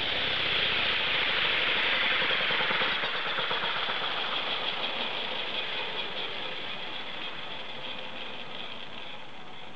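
HK450 electric RC helicopter's rotor and drive gears spinning down, a rattling whoosh that slowly fades.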